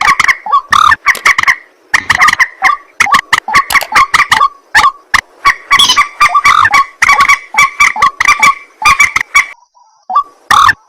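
Recorded calls of a white-breasted waterhen and common moorhen: a dense, rapid series of loud, harsh repeated calls, breaking off briefly near the end before starting again.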